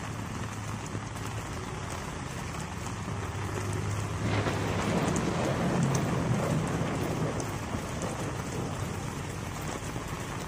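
Rain falling steadily on water, with a low steady hum underneath. The rain noise swells for a few seconds about four seconds in, then settles back.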